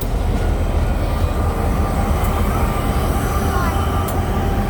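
Train rolling slowly past close by: a steady, loud low rumble of the locomotive and cars on the rails.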